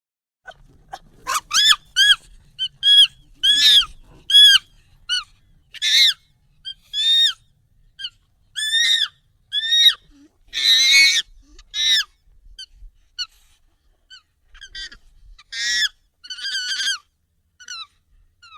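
Monkey calls, sped up and pitched up: a quick string of short, high, arching calls, roughly one every half second, with a longer, harsher shriek about eleven seconds in.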